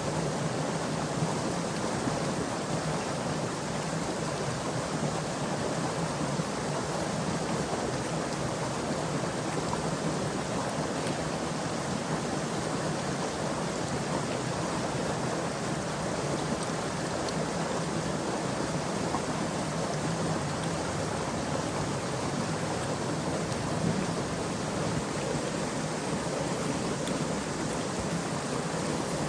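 Stream water running steadily, an even rushing noise with no breaks.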